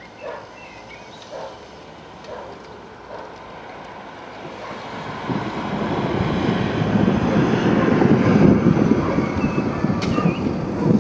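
Thunder rumbling: a long low roll that builds from about five seconds in, is loudest a few seconds later and is still rolling at the end.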